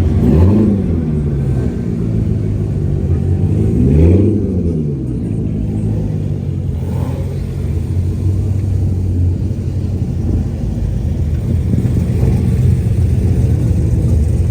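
Several Corvette V8 engines rumbling at low speed as a group of cars rolls in. One engine gives a quick rev that rises and falls about half a second in, and another about four seconds in.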